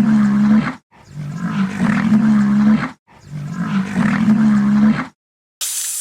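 An animal's call, a steady low tone held about two seconds, three times over with short gaps between. A hiss starts near the end.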